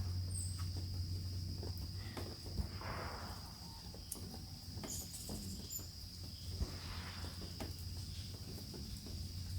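Steady high-pitched drone of insects, with a few short, high chirps over it and a low steady hum underneath.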